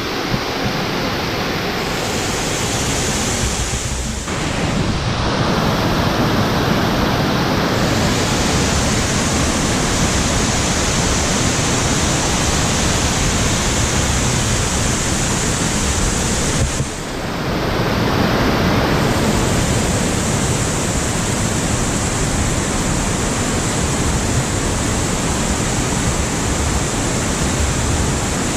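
Waterfall pouring: a loud, steady rush of falling water, dipping briefly twice, about four seconds in and again about seventeen seconds in.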